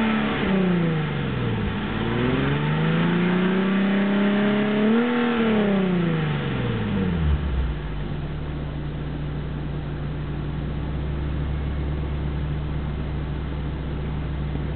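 Nissan 370Z's 3.7-litre V6 through a Nismo exhaust. The engine falls off one rev in the first second or two, then revs up again, holds briefly and drops back, and settles into a steady idle about halfway through.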